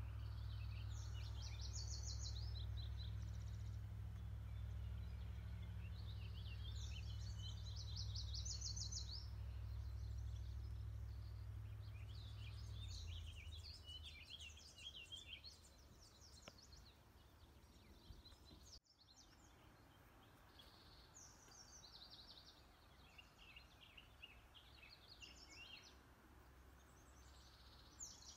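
Songbirds singing, short high trilled phrases repeated every few seconds, over a low steady rumble that stops about halfway through.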